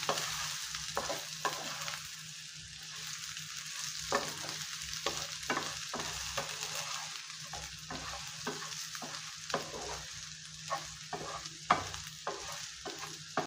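Diced potatoes frying in coconut oil in a non-stick pan, sizzling steadily, while a wooden spatula stirs and tosses them with irregular scraping knocks against the pan. The loudest knock comes near the end.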